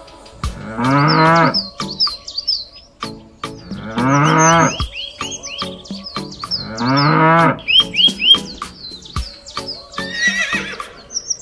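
Cow mooing three times, each moo long and falling in pitch at the end, about three seconds apart, over background music with chirping bird sounds and a ticking beat.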